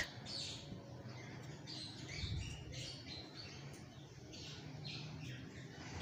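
Faint birds chirping, many short high calls repeating over a low steady hum.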